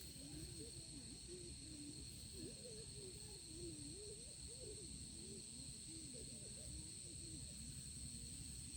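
Faint field ambience: a steady, high-pitched insect drone runs throughout. Under it, a faint wavering tone rises and falls without a break.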